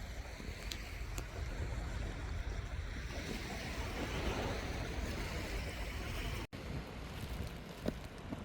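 Wind rumbling on the microphone over the wash of sea waves. The sound cuts out for an instant about six and a half seconds in.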